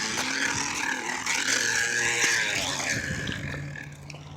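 Bottle fitted to a Huffy kids' bike slapping against the turning wheel's spokes as the bike is ridden, a buzzing rattle meant to imitate a motorcycle; it is loudest in the middle and fades near the end.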